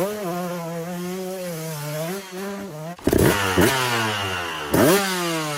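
Two-stroke engine of a 2004 KTM 200 SX dirt bike running at a fairly steady throttle for about three seconds. It then revs up sharply three times in quick succession, and the pitch falls away after the last rev.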